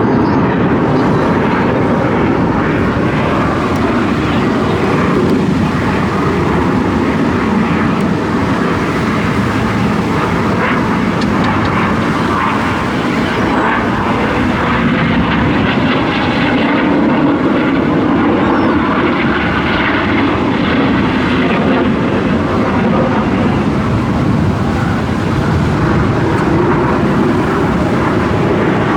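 Display aircraft engine noise overhead: a loud, steady rush with no clear rise or fall.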